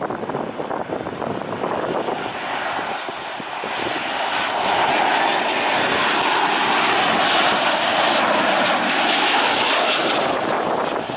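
Engine noise of an airliner passing close on its landing approach, swelling about four seconds in, staying loud and then easing near the end.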